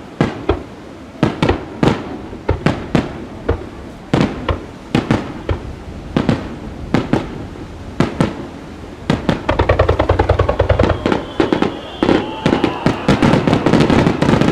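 Aerial firework shells bursting in quick succession with sharp bangs. About two-thirds of the way in they give way to a rapid volley of reports, several a second, over a low rumble, with a thin falling whistle above.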